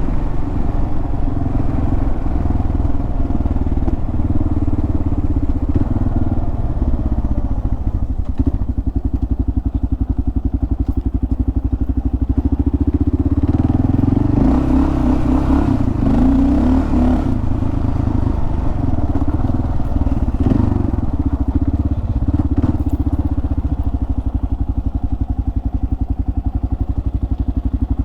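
Kawasaki KLR650's single-cylinder engine running on the move, with a steady rapid pulse of firing strokes. It gets louder and brighter for a few seconds about halfway through.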